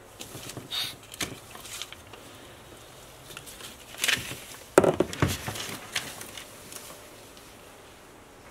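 Scattered rustling and clicking handling noises, with a sharper cluster of knocks about four to five seconds in.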